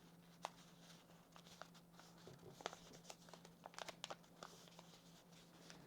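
Sheet of paper rustling and crinkling faintly as it is handled and folded, with scattered light clicks and scrapes, over a faint steady low hum.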